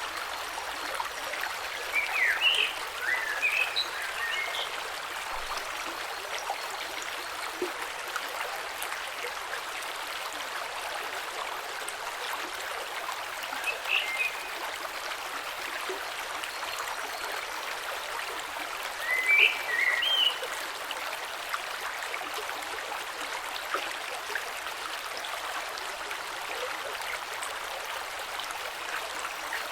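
Gentle creek flowing over stones, a steady rush of water. Short high chirps cut through three times: about two seconds in, about halfway, and about two-thirds of the way through.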